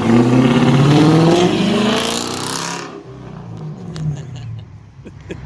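Chrysler 300S Hemi V8 with a straight-piped exhaust on a cold start: it catches suddenly and flares up in revs, rising in pitch, then drops after about three seconds to a quieter idle.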